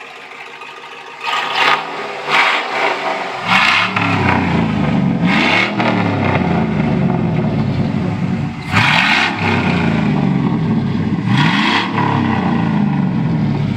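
Chevy 2500 pickup's 6.0-litre V8 running straight-piped with the muffler removed, revved several times. From about a second in, there is a series of sharp revs that rise and fall back over the rumble, sounding really mean.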